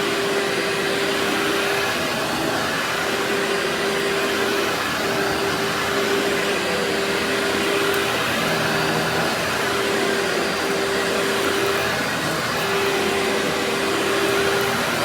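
Workhorse vacuum cleaner running steadily with a dense rushing noise. A hum in its sound drops out briefly and returns every second or two.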